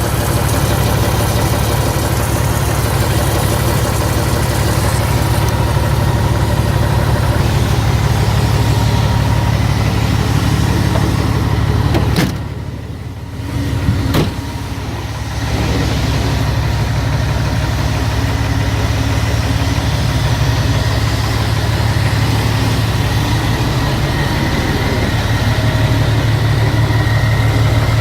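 Iveco TurboStar tractor unit's diesel engine idling steadily. About halfway through it drops away for a couple of seconds, with a sharp click at each end of the gap.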